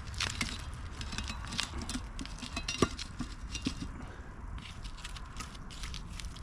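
Campfire crackling with irregular pops and snaps, one sharper crack a little under three seconds in, over a steady low rumble of wind on the microphone.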